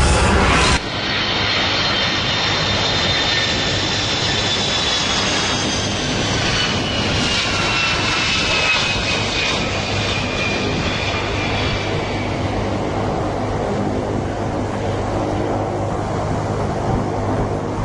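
Airplane engine noise: a steady loud rush with several high whines that slowly fall in pitch, beginning abruptly about a second in.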